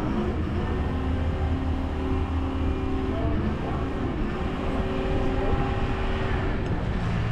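Diesel engine running steadily with a low hum.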